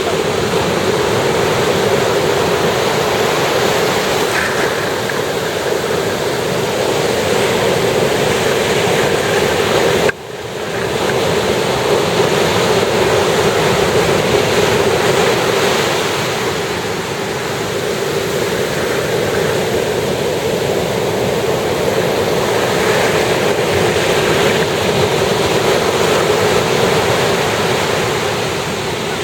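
Sea surf breaking and washing onto a beach: a continuous rush of waves that swells and eases gently. It drops out for an instant about ten seconds in.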